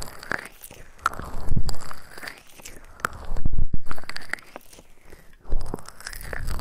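Close-microphone ASMR trigger sounds: irregular crackly clicks and soft rustling right at the microphone, with a couple of louder muffled thumps in the middle.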